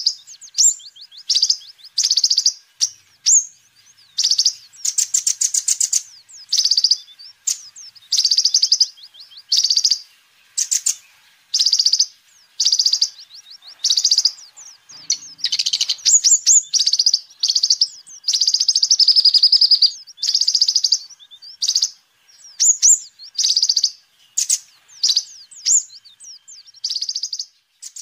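A kolibri ninja sunbird singing in short, rapid, high-pitched chirping phrases, roughly one a second with brief pauses, and one longer run of song about two-thirds of the way in. This is the sunbird's full-voiced 'gacor' song.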